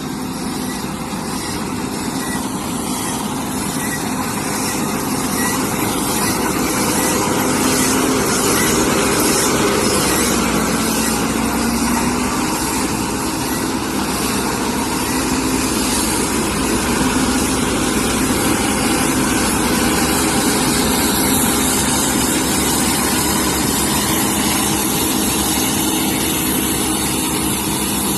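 John Deere W70 combine harvester running with a continuous engine and machinery drone, which grows somewhat louder over the first several seconds and then holds steady.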